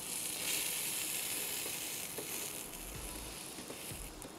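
Breaded chicken cutlet frying in oil in a nonstick frying pan, a steady sizzle that is strongest in the first two seconds or so and then eases.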